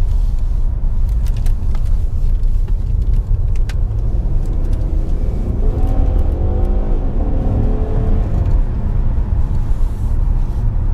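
Road and engine rumble inside the cabin of a 2016 Ford Taurus SHO on the move, with its 3.5-litre twin-turbo EcoBoost V6 heard rising in pitch about halfway through as the car accelerates, then fading back into the road noise.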